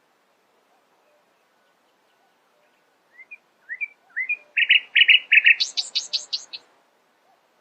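A songbird singing one phrase, starting about three seconds in: a few short rising notes, a quick run of lower notes, then a fast high trill that stops abruptly.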